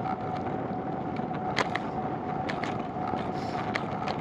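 Steady rumbling noise of a bicycle ride on wet roads, with a constant thin tone and scattered sharp clicks and taps throughout.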